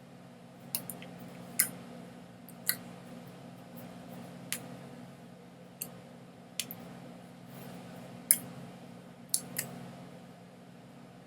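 About ten sharp, irregularly spaced clicks over a steady low hum.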